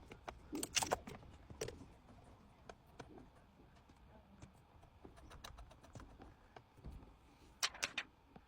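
Scattered light clicks and taps of small hard objects being handled, with a quick run of three sharper clicks near the end.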